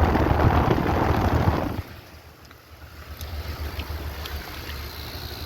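Trane XR outdoor AC condensing unit running just after it kicked on: a steady low hum with a fast flutter. Wind buffets the microphone loudly for the first couple of seconds.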